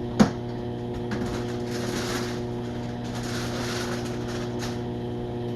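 A steady electrical hum, with one sharp click just after the start and two short stretches of hiss in the middle.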